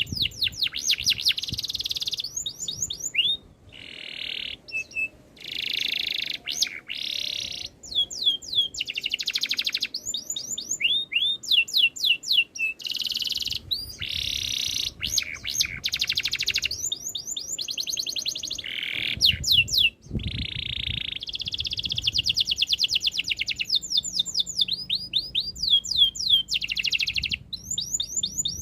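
Domestic canary singing a long, continuous song. Dense rolling trills alternate with runs of quick down-sweeping chirps, broken only by brief pauses.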